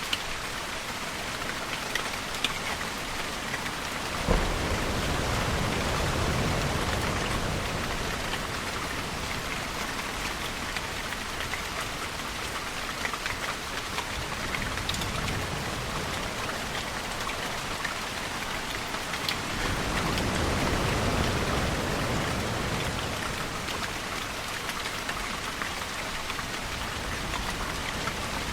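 Steady rainfall with distant thunder: a low rumble breaks in suddenly about four seconds in and slowly fades, and a second, softer rumble swells and dies away past the middle.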